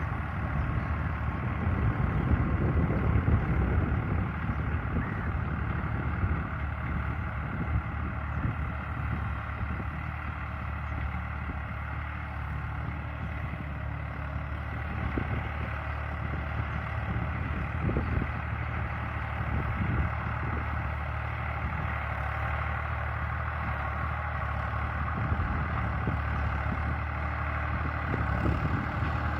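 Massey Ferguson 260 Turbo tractor's diesel engine running steadily while pulling an 11-tine cultivator, louder in the first few seconds and again near the end, a little quieter in between.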